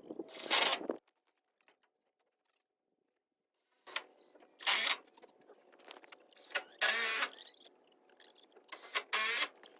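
Cordless drill driving screws into the wooden frame of a chicken coop, in about four short bursts of the motor, each under half a second.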